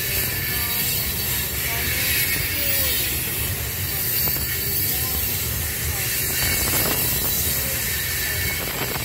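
Loaded coal hopper cars rolling past, their steel wheels running on the rail in a steady, even rumble, with a few short faint squeals.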